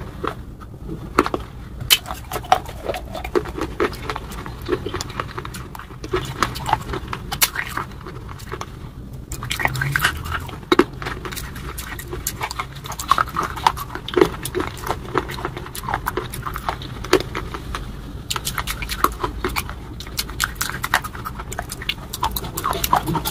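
Close-miked eating sounds of someone chewing crunchy rolls: a steady, irregular run of sharp crunches and wet mouth clicks, several a second.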